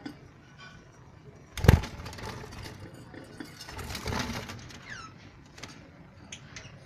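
Birds scuffling and fluttering: a loud knock about a second and a half in, then a couple of seconds of rapid rattling, followed by a few short chirps, one falling in pitch.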